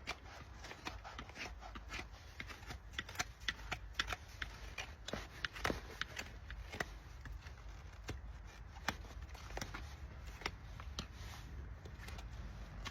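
Farrier's tools trimming a horse's hoof: irregular sharp snips, cuts and scrapes, several a second, over a low steady hum.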